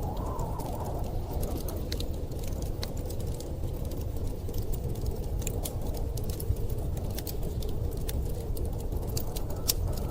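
Wood fire crackling, with many small sharp pops scattered through it, over a steady low rush of storm wind.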